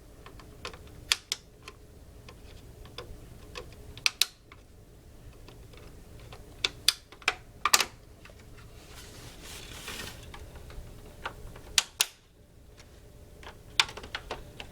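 Irregular clicks and taps of the Xbox 360's plastic shell and a knife blade worked into its release holes as the case is pried apart, with a short scrape partway through.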